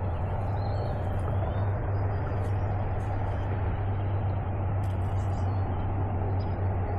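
Steady rushing noise of a shallow river flowing over rocks, with a strong low rumble and no distinct events.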